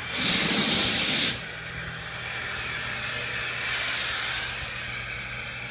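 2-8-0 steam locomotive venting steam: a loud blast of hiss for about a second, then a steady lower hiss that swells again briefly near the middle, over a steady low hum.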